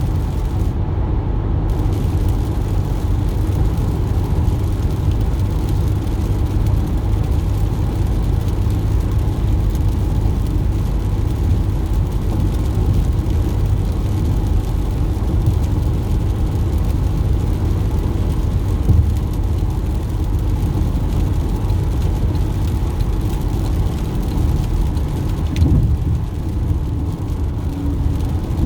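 A moving car's steady low rumble of road and engine noise.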